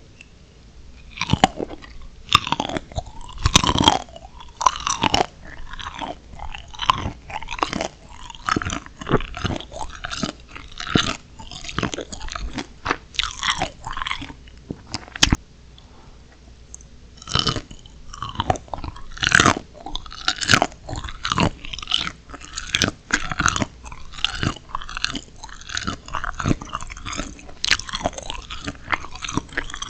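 Close-miked chewing and crunching of steamed shrimp, with dense, irregular crunches. The crunching stops for a couple of seconds around the middle, broken only by one sharp click, then picks up again.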